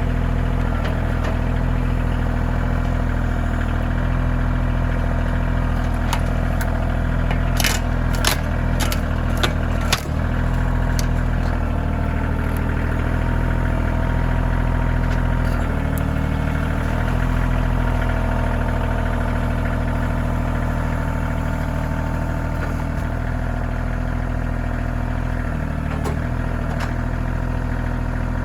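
Kioti CK2620 compact tractor's three-cylinder diesel engine running steadily, with a quick cluster of sharp clanks and knocks about eight to ten seconds in.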